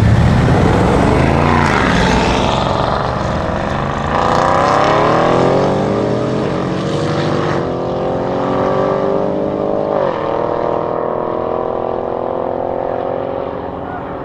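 Two cars launching hard from a standing start, one of them a 4.0-litre twin-turbo AMG V8 in a Mercedes V-Class van, engines rising in pitch through the gears with drops at the gear changes about four, seven and a half and ten seconds in. The sound slowly fades as they pull away.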